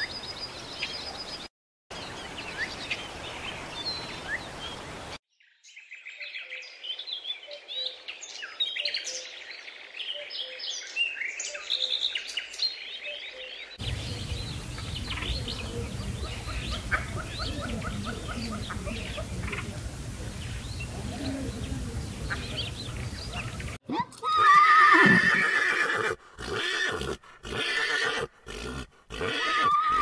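Bird calls and chirps through the first half. Then, near the end, a horse whinnying loudly in several broken calls, the loudest sound in the stretch.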